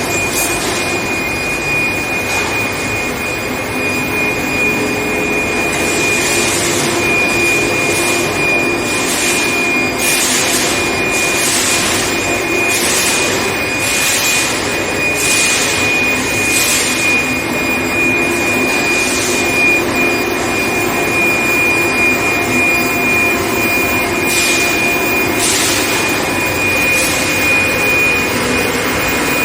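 Induction furnace running: a steady high-pitched whine over a loud hiss. In the middle, short hissing bursts come about once a second.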